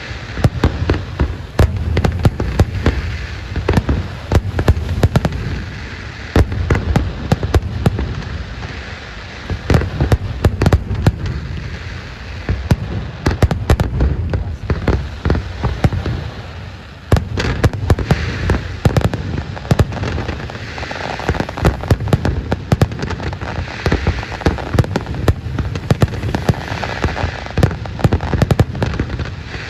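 Aerial fireworks display going off in a dense, rapid string of bangs and pops over a low rumble, easing off briefly about halfway through before building again.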